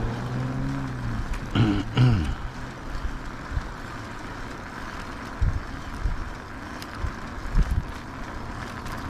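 Wind and road noise from riding an e-bike: a steady rushing with a few low bumps. In the first two seconds a low droning hum dips in pitch and fades out.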